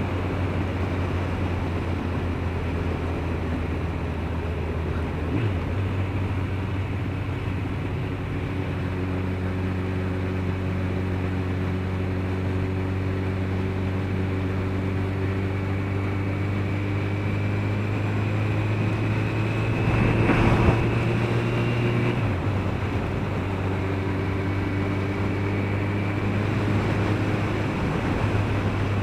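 Suzuki RF900R motorcycle's inline-four engine running steadily under way, with wind and road rush. The engine note steps in pitch about 5 and 22 seconds in, a faint high whine rises in the middle, and a brief louder rush of noise comes about 20 seconds in.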